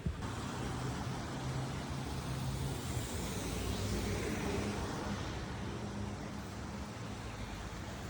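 A car driving past on a wet street, its tyre hiss swelling about three seconds in and fading out, over a steady low traffic hum.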